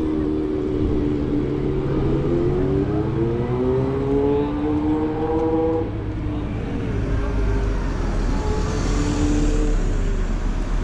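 A motor vehicle engine running close by. Its pitch holds steady, then climbs over about four seconds as it accelerates, and it gives way to a low rumble in the second half.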